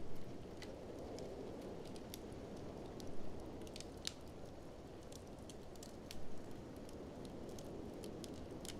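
Wood fire in a fireplace crackling, with scattered sharp clicks and a few louder pops, over a steady low rushing noise.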